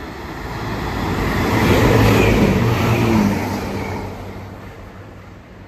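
Chiltern Railways diesel multiple unit running past the platform: engine and wheel noise swell to a peak about two seconds in, then fade away.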